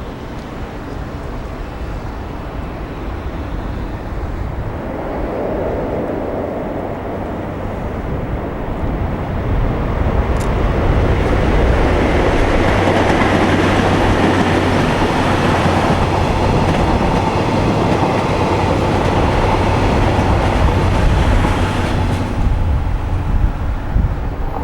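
Electric-locomotive-hauled passenger train (EF58 and EF64 locomotives with 14 series coaches) running past on the line: the rolling and wheel noise grows louder over the first ten seconds or so, holds steady with a low hum underneath, and eases off near the end.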